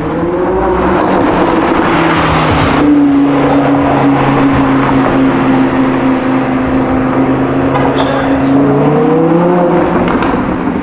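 A car engine running loud: its pitch rises in the first second, holds steady for several seconds, then climbs again near the end as it accelerates.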